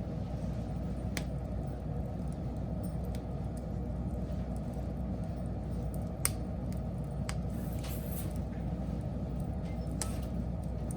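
Wood fire burning: a steady low noise with a few sharp crackles and pops scattered through it, the loudest about six seconds in.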